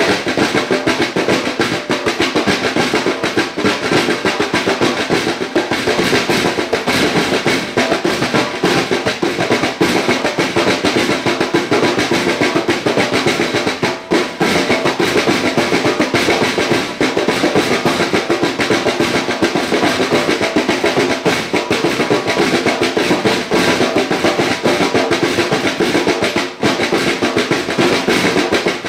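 Music led by a drum kit played fast, with continuous snare drum rolls.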